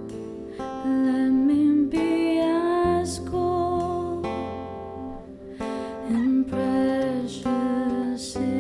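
Worship song: a singing voice over acoustic guitar, with sustained low notes underneath.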